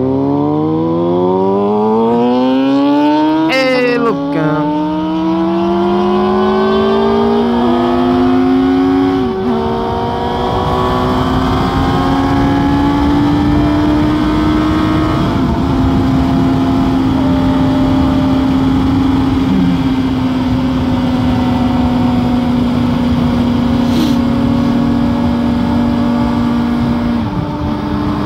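Inline-four sport motorcycle accelerating hard through the gears. Its pitch climbs and drops sharply at each upshift, five or six times in the first sixteen seconds, then holds steady at cruising speed, with heavy wind rush throughout.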